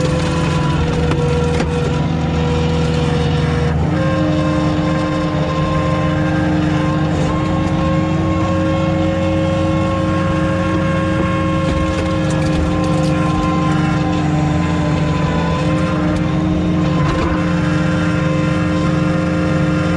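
Skid steer engine running steadily, with a small shift in pitch about four seconds in.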